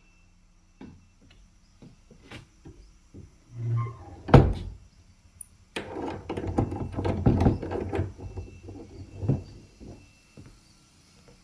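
A series of knocks and thuds: one loud thud about four seconds in, then a couple of seconds of dense clattering knocks, and a last knock near the end.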